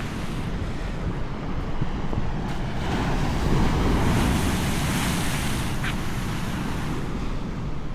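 Atlantic surf washing ashore, with wind buffeting the microphone; the surf swells to a peak about halfway through.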